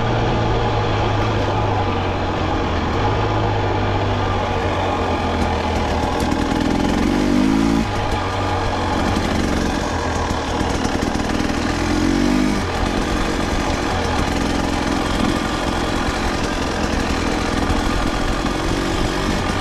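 Two-stroke dirt bike engine running, revving up three times in rising sweeps of pitch.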